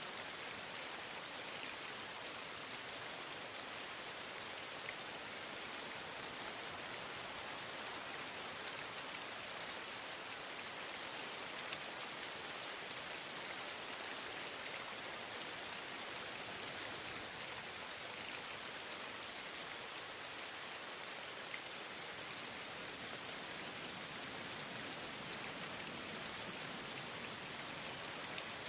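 Steady rain falling: an even hiss with many light, scattered drop ticks.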